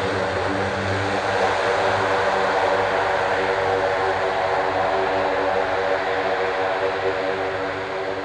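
Propeller-driven aircraft engines running, a steady hum with a strong low drone and evenly spaced overtones that drift slightly in pitch, over a hiss of engine and air noise.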